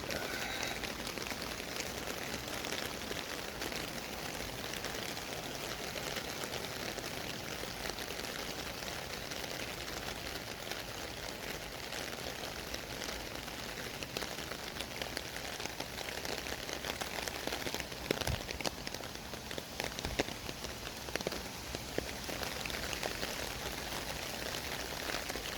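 Steady, rain-like hiss of city street ambience, with scattered light ticks and taps that are a little more frequent about two-thirds of the way in.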